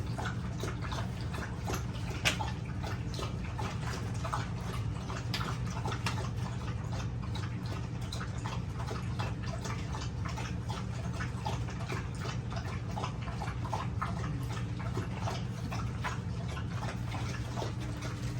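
A litter of three-week-old American Bully puppies eating together from a food pan: many small wet smacking and lapping clicks, with one sharper click about two seconds in, over a steady low hum.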